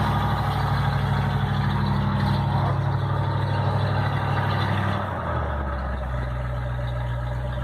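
1965 Ford Thunderbird's 390 V8 idling steadily; its note shifts and gets slightly quieter about five seconds in.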